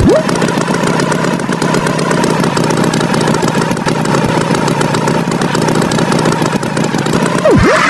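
Tractor engine sound effect running steadily at idle, with a quick downward-then-upward pitch swoop at the start and again near the end.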